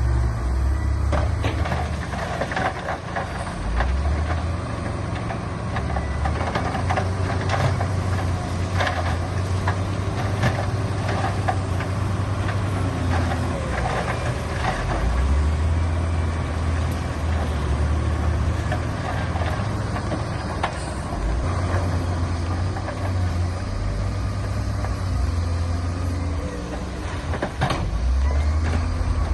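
Heavy diesel earthmoving machinery running, its engine drone swelling and easing every few seconds as the load changes. Scattered metallic clanks and knocks sound over it throughout.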